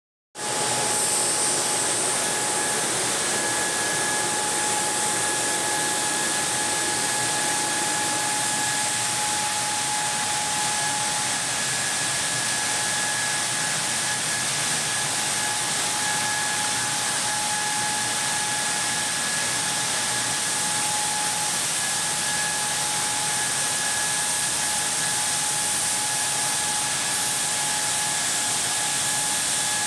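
Hydraulic taphole drilling machine running, drilling out a blast furnace taphole: a steady hissing noise with a steady high whine over it.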